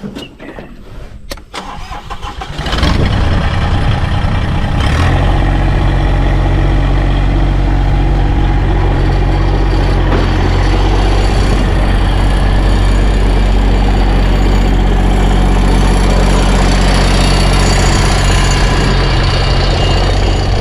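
Tractor engine starting up about three seconds in, after a few light knocks, then running steadily.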